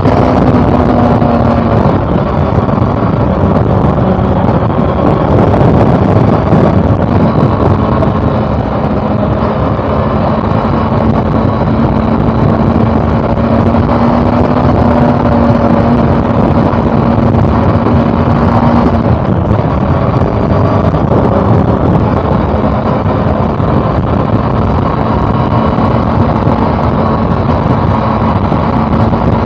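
Honda CB400 Super Four's inline-four engine running at a steady cruise under way, with its pitch holding level apart from a brief easing off about two-thirds of the way through. Wind rushes over the microphone.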